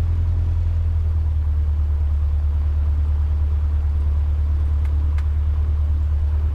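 Cessna 150's Continental O-200 four-cylinder engine idling steadily as a low drone while the plane holds short of the runway, with a couple of faint clicks about five seconds in.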